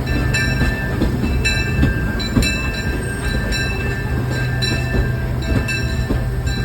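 Disneyland Railroad train rolling along the track: a steady low rumble with repeated short, high-pitched squeals, typical of wheels squealing on the rails.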